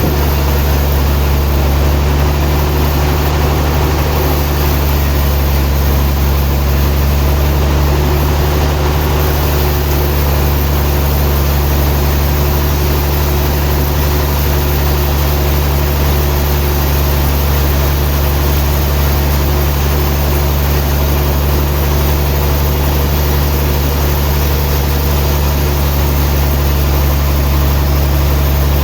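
Sawmill machinery running with a steady, loud, unchanging low drone.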